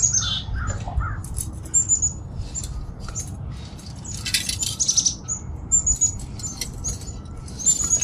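Small birds chirping: repeated short, high notes, each falling in pitch. About four seconds in comes a brief metallic clinking and rattling as the half-laced bicycle wheel's loose spokes move while it is turned over.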